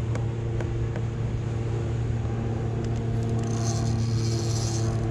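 Steady low drone of a motorboat engine, with a few light clicks about a second in and a brief high hiss near the end.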